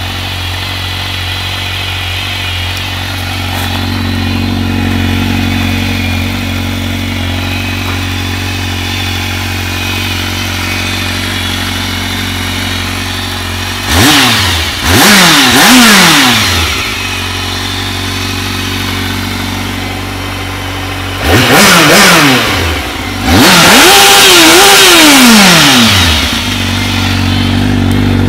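A 2006 Kawasaki Z750's inline-four engine with its stock exhaust idles steadily, then is blipped three times in quick succession about halfway in. After a few seconds back at idle it is revved again: two short blips, then a longer rev held for about two seconds before it drops back to idle.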